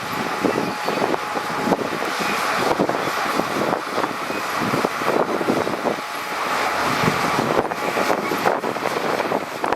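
Heavy earthmoving machinery at work: an engine running under a dense, irregular clatter of knocks and rattles, like tracks and stone moving.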